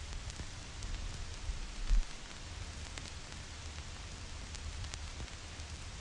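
Vinyl record surface crackle: scattered clicks and pops from the stylus over a steady hiss and a low rumble, with one louder low thump about two seconds in.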